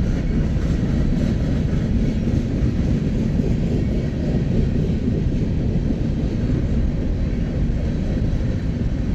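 Train of empty grain cars rolling past with a steady low rumble.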